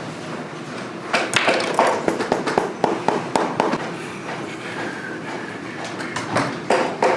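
A run of irregular sharp knocks and clicks over a steady mechanical hum, with the knocks thickest between about one and four seconds in and a few more near the end.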